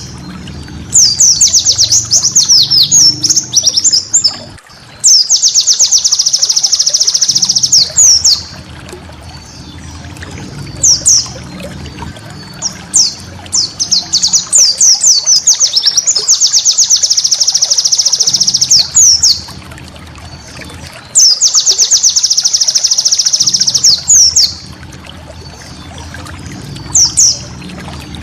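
White-eye (pleci) singing: rapid, high, chattering trills in bursts of one to about four seconds, with short chirping phrases and brief pauses between them.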